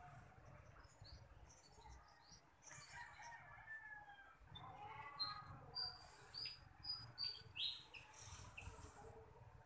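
Faint bird calls: a drawn-out crow like a rooster's about three seconds in, then a run of short high chirps from a small bird, about two a second, over the second half.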